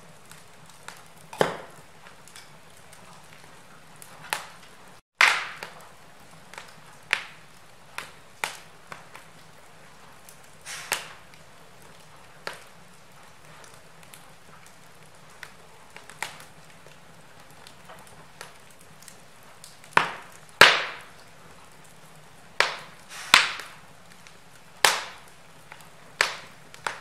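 Wood fire crackling in a fireplace: burning logs give off irregular sharp pops and cracks, a few of them much louder, over a faint steady background.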